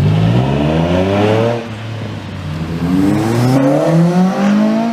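Car engine revving hard: its pitch climbs for about a second and a half, falls back, then climbs again to near the end.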